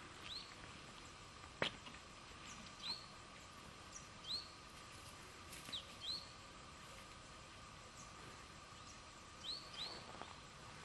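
Small birds giving short, quick upward-sweeping chirps, scattered singly and in pairs, over a faint steady hum. One sharp snap, like a twig breaking underfoot, stands out about a second and a half in.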